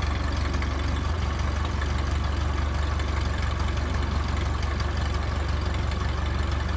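Ford tractor's engine idling steadily with an even low hum.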